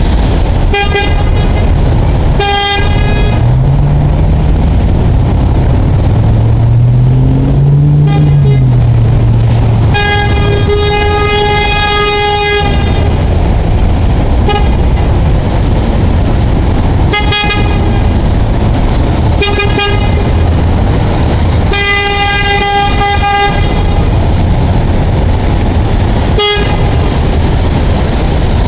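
A vehicle horn honking repeatedly, mostly short toots with a couple of longer blasts, over a steady loud engine-like rumble. Between the first honks a low engine tone rises and falls twice.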